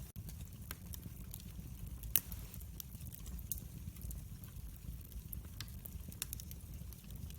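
Wood fire in a fireplace crackling: scattered sharp pops over a low, steady rumble, with one louder pop about two seconds in. The sound drops out for an instant right at the start.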